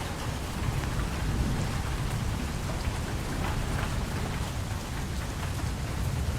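Steady rain falling, with scattered individual drops striking close by and a low rumble underneath.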